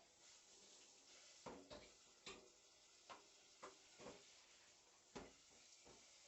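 A cat's paws and claws against a cardboard box, making about seven light, irregular taps and scratches.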